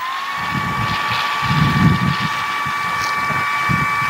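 High, steady electric-motor whine of a YU XIANG F11-S RC helicopter, its rotor spinning at an even idle speed while the model stays on the ground, with an uneven low rumble beneath.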